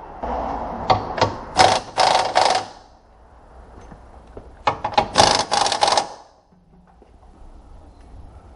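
A power tool rattling in short bursts: several quick bursts in the first three seconds and another about five seconds in.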